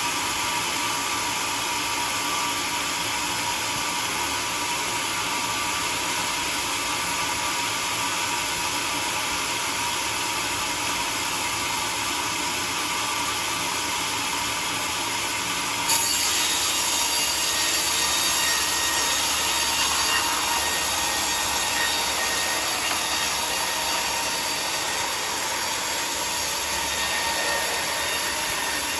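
Homemade sawmill cutting through a log, a steady sawing noise. About halfway through the sound changes abruptly, with a short jump in level, then runs on brighter and slightly louder.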